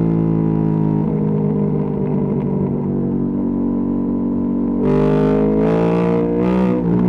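Ducati Panigale V2S V-twin engine through a Termignoni exhaust, running steadily. It gives three short bursts of throttle in the second half.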